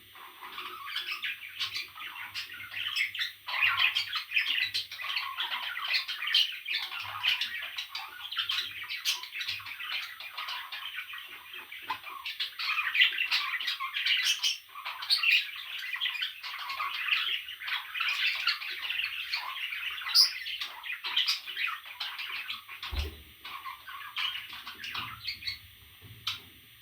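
Parrot chicks squawking and chirping in a dense run of overlapping calls that dies down near the end, with a single low thump shortly before they quieten.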